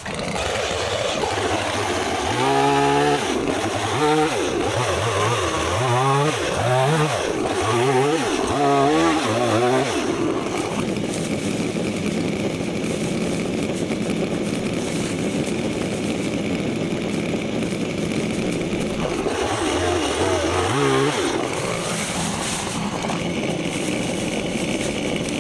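Stihl MS 170 two-stroke chainsaw revving up and down over and over for the first ten seconds or so, then held at a steady high speed for several seconds, with another couple of revs about twenty seconds in before it settles steady again.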